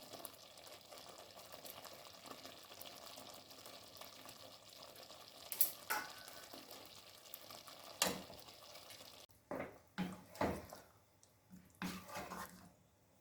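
Cream sauce simmering and sizzling in a pan while a spoon stirs the chicken in, with a few sharp clinks of the spoon against the pan. The sizzle stops suddenly about nine seconds in, followed by several louder knocks and scrapes.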